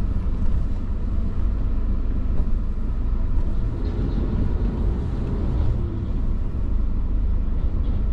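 Vehicle driving along a road: a steady low rumble of engine and road noise.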